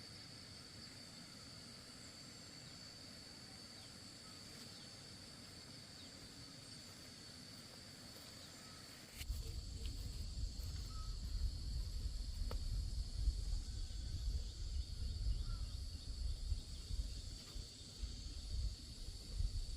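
Steady high-pitched insect buzz over quiet rural background. About nine seconds in, a louder, fluttering low rumble begins suddenly and carries on under it.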